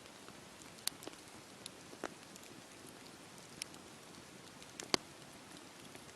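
Wood fire burning in a fireplace: a soft steady hiss with scattered sharp crackles and pops, the loudest about five seconds in.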